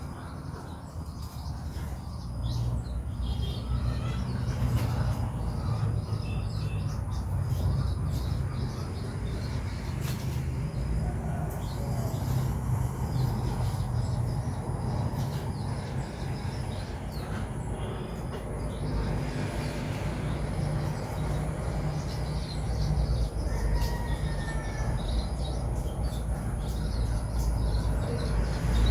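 Steady low rumble, with a few faint bird chirps now and then, including a short pair of chirps about two-thirds of the way in.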